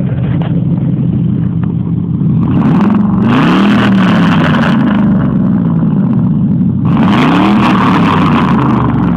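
Ford F-150's 4.6-litre V8 through a true dual exhaust with no catalytic converters, idling and then revved twice, about three and seven seconds in, dropping back toward idle after each rev.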